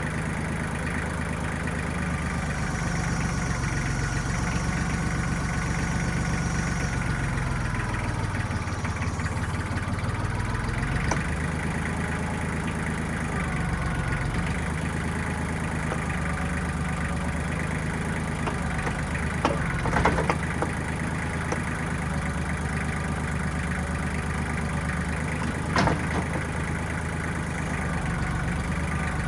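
Diesel engine of a 1995 Kubota backhoe running steadily. Its note sags and recovers in the first third, and a few sharp metallic knocks come about two-thirds of the way through and again near the end.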